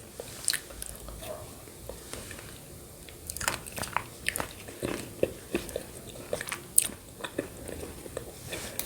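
Close-miked mouth sounds of eating yogurt with grated coconut: scattered wet clicks and smacks of chewing, coming more often from about three seconds in.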